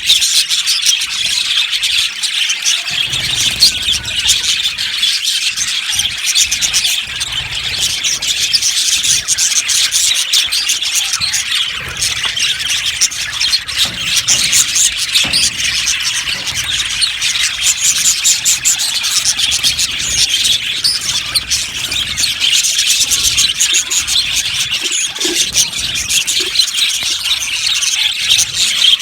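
A flock of budgerigars chirping and chattering together, a dense, continuous high-pitched twitter of many overlapping birds.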